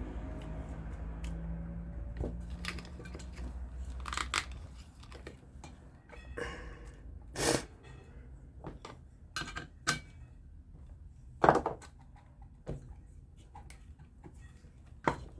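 Metal clicks and knocks from prying a fan motor's housing apart with a hand tool: about half a dozen sharp ones spread out, with a low hum that fades over the first few seconds.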